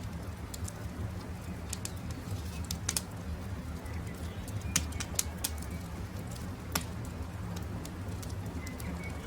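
Wood campfire crackling, with a steady low rumble under scattered sharp pops, the loudest about five seconds in and near seven seconds. Faint short bird calls sound over it.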